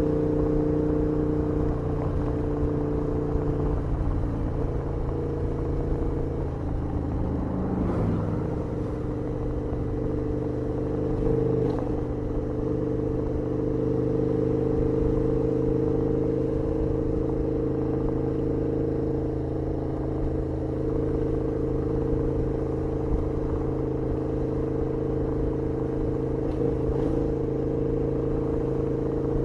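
KTM 1290R's V-twin engine running at steady revs under way, with a brief change in pitch about eight seconds in, as at a gear change or throttle change.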